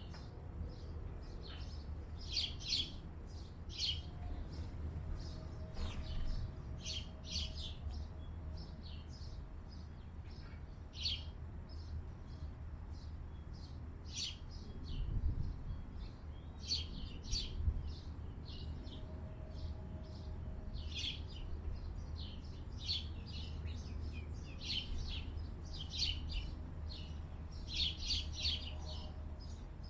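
Small birds chirping: short high chirps come in irregular bursts and clusters all through, over a steady low rumble.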